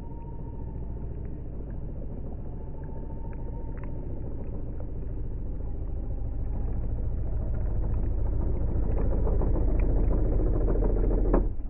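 Small electric motor of a radio-controlled work boat whining faintly on the water, its pitch sliding down over the first few seconds, over a low rumble that grows steadily louder toward the end and cuts off suddenly.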